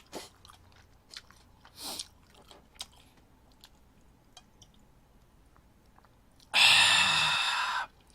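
Cola being drunk: soft mouth and swallowing sounds, then, near the end, a loud rasping breath out about a second long that stops abruptly.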